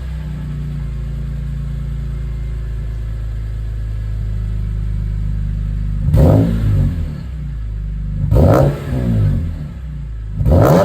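BMW E46 M3's S54 inline-six, breathing through a Top Speed section 3 aftermarket exhaust, idling steadily and then blipped three times, about six, eight and a half and ten and a half seconds in, each rev rising quickly and falling back to idle.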